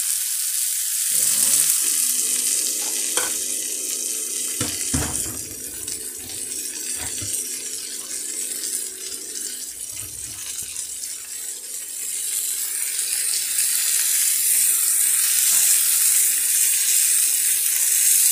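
Sliced red and green bell peppers sizzling in hot oil in a frying pan, stirred with a wooden spatula that knocks against the pan a few times. The sizzle grows louder in the second half.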